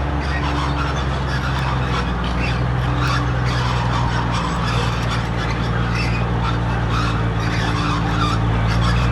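Heavy earthmoving machine's diesel engine running steadily under load, with a rough, grating noise of metal working over it, getting a little louder towards the end.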